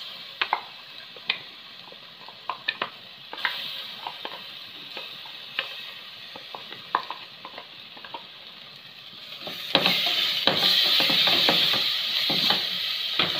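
A spoon scraping and tapping ground masala paste out of a steel mixer-grinder jar, heard as a scatter of sharp clicks over a faint sizzle. About ten seconds in, a loud frying sizzle sets in as the paste is stirred into the hot onion-spice masala in the pressure cooker.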